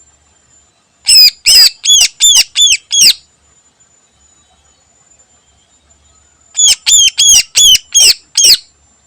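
A caged cucak ijo (green leafbird) calling in two loud bouts of about six sharp, repeated notes each, every note arching up and then sliding down in pitch. The first bout comes about a second in and the second near the end.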